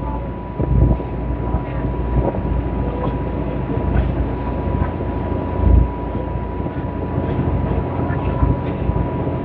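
Deep, steady rumble of a large container ship under way, with gusts of wind buffeting the microphone and a thin steady whine running through it.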